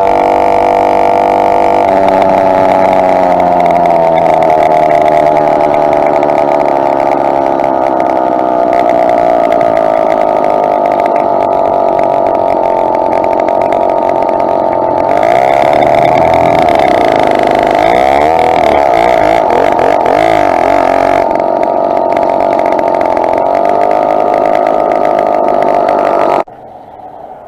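Two-stroke motorized bicycle engine running on the move, its pitch rising and falling with the throttle, louder and more wavering for several seconds past the middle. The sound drops off sharply near the end.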